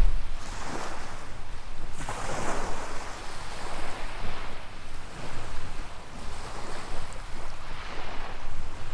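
Small waves breaking and washing up a sand beach, each wash swelling and fading over a second or two, the strongest a couple of seconds in. Some low wind rumble on the microphone near the start.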